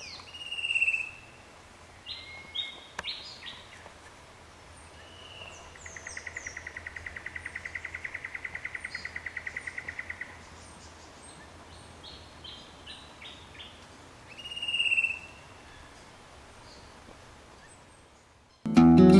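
Several birds calling over a faint steady hiss: a loud sweeping whistle about a second in and again near the end, scattered short chirps, and a rapid, even trill lasting about four seconds in the middle. Acoustic guitar music starts just before the end.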